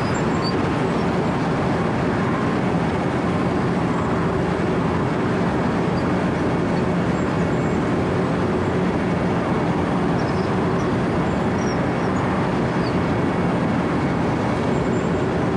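Wirtgen W 120 CFi 4-foot cold milling machine running steadily under the operator: a constant dense machine noise with a low engine hum.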